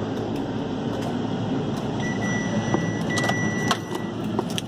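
Steady low vehicle rumble. In the second half a high electronic beep is held for about a second, twice, over a few sharp clicks.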